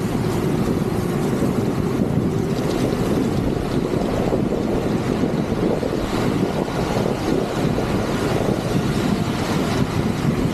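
Steady rushing noise of wind buffeting the microphone mixed with heavy rain and wet-road spray while riding in a downpour.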